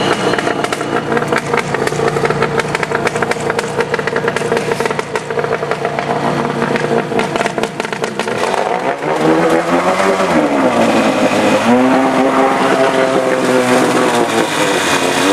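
Engine of a homemade amphibious Subaru car-boat running under way: a steady drone for the first half, then revving up about nine seconds in, easing off briefly and rising again.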